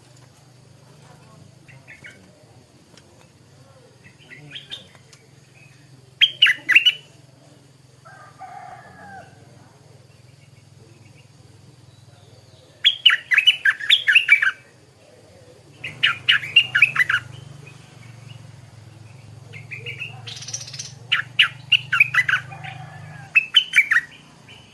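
Stripe-throated bulbul singing in short bursts of quick, clear notes, four phrases in all, the last one longer and broken into several parts.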